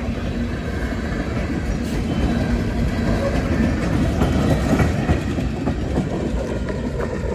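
CSX freight train's cars rolling past at slow speed, a steady heavy rumble of steel wheels on rail with occasional clicks.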